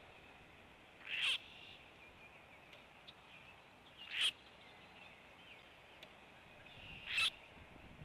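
Three short, loud bird calls about three seconds apart, over faint chirping of other birds.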